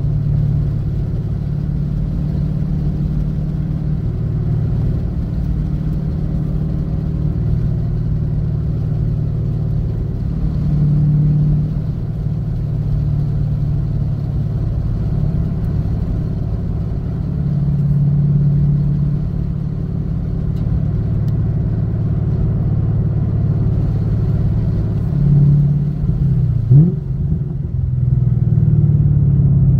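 The 2016 Camaro SS's 6.2-litre LT1 V8, heard from inside the cabin, running steadily at part throttle through Stainless Works headers and a full aftermarket exhaust. Near the end there is a short rise in revs as the car shifts down from fourth to third.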